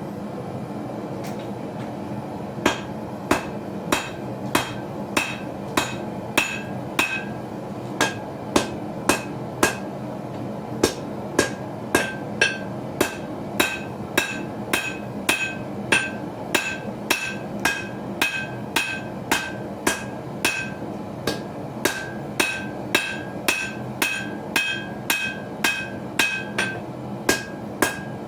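Hand hammer striking hot steel on an anvil, forging a small knife blade: regular ringing blows at roughly one and a half a second, starting a couple of seconds in, over a steady background noise.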